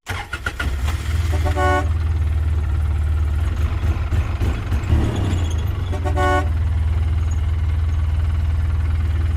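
Truck engine running with a steady low rumble, and two short horn toots: one about a second and a half in, another about six seconds in.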